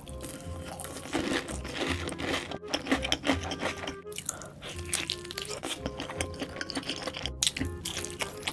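Close-miked eating: crunchy bites and wet chewing as a fried cheese ball is eaten, then sauce-glazed grilled BBQ chicken is bitten into and chewed. The crunching comes in quick, irregular strokes throughout.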